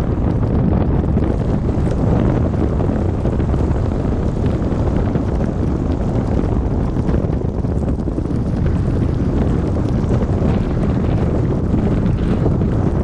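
Steady low rumble of a car driving on a snow-covered road, heard from inside the car.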